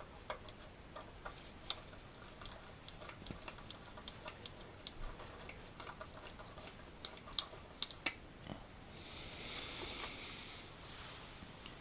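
Light, irregular metallic clicks and ticks of a screwdriver driving the small screws that hold a voltage regulator to the back of an alternator, about two to three a second for the first eight seconds, then a short rustle.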